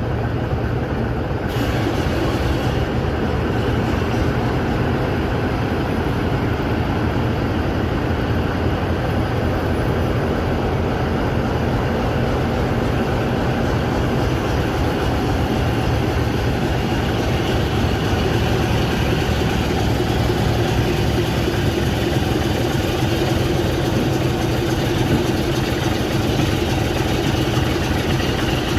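Train running with a steady, unbroken rumble.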